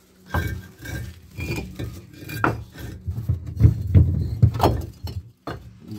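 Stones knocking and clinking against each other as a stone is worked and wedged into place, a series of irregular knocks with the heaviest ones about four seconds in.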